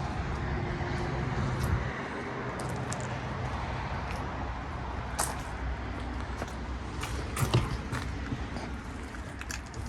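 Steady outdoor background noise with a low hum in the first two seconds and a few scattered light knocks.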